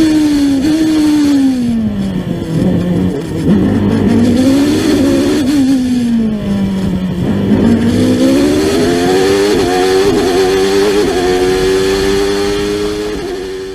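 Ford Cosworth HB 3.5-litre V8 of a 1993 McLaren MP4/8 Formula One car, heard onboard. Its pitch falls over the first few seconds and dips again near the middle, then rises steadily and holds high before fading out near the end.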